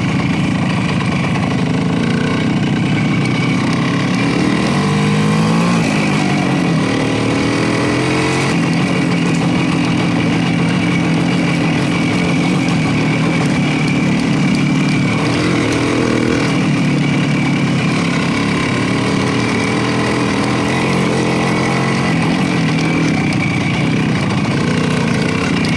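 Motorcycle engine running steadily while riding, its pitch rising and falling with throttle and gear changes, most noticeably a few seconds in.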